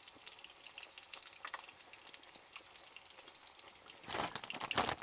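Eggs frying quietly in a pan, with faint scattered crackles and sizzle. About four seconds in, a louder, brief rustling as the plastic bag of shredded cheese is handled.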